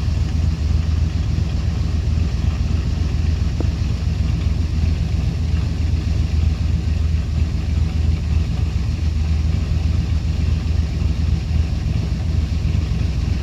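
An engine idling steadily, a low even rumble that does not rise or fall.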